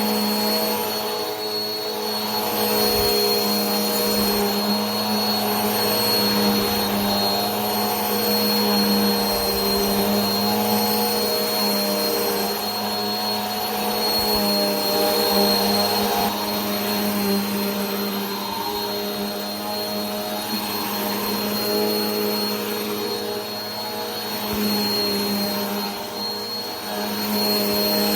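Vacuum cleaner motor running steadily, a continuous whooshing hum with a thin high whine on top and a pitch that wavers slightly.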